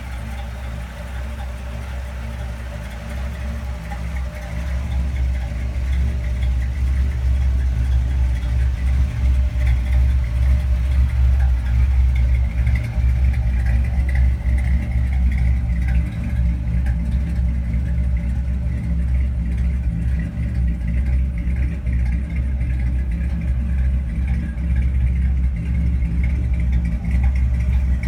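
1962 Chevrolet Impala's 327 small-block V8 running steadily with a deep, even engine note that grows louder over the first several seconds, then holds steady.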